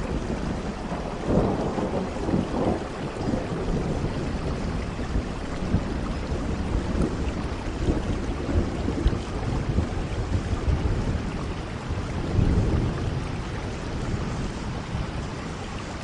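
Steady heavy rain with low rumbles of thunder swelling a second or two in and again about three-quarters of the way through.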